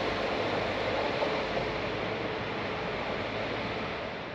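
Train running past on the rails, a steady rushing rumble that slowly fades as it moves away.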